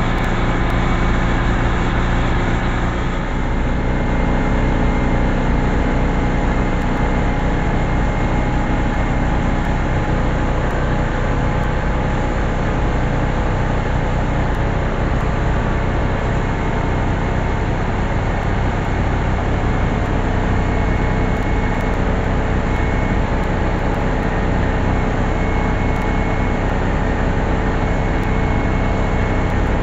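Air compressor running steadily with a constant hum, under the hiss of a primer spray gun.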